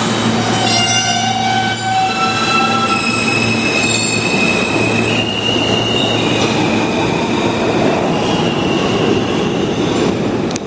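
New York City subway train moving through the station, its wheels squealing in several high, shifting tones over a steady loud rumble.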